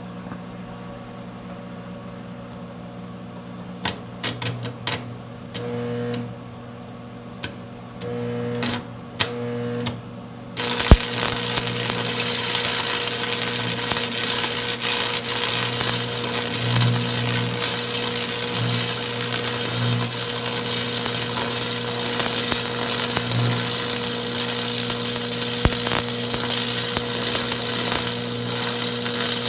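Stick welding arc on steel plate: several short crackling bursts as the electrode is struck and the arc sputters out, then about ten seconds in the arc catches and burns steadily with a loud continuous crackle over a steady electrical hum.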